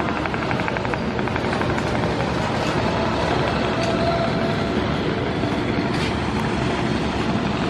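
River passenger launch under way at speed: a steady drone of its diesel engines mixed with rushing water and wind, with a fast rhythmic clatter in the first couple of seconds.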